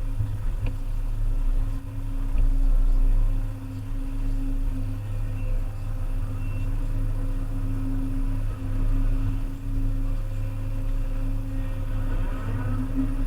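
Volvo EC300E excavator's diesel engine running steadily under work, a continuous low hum that swells in loudness about two seconds in.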